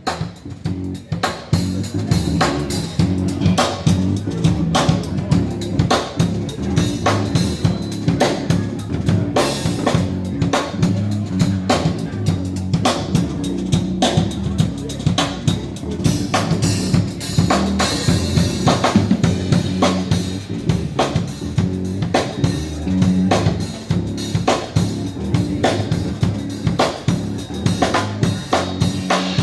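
A drum kit plays a steady groove of kick, snare and rimshot hits, with an electric bass guitar playing a line of low notes under it. Drums and bass play together, with no other instruments.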